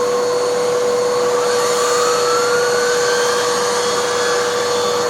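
Vacuum cleaner running steadily, pulling air through an air-driven hand turbo tool whose brush barely turns and nearly stalls against a low pile cushion. A steady whine throughout, with a faint tone rising in pitch about a second and a half in.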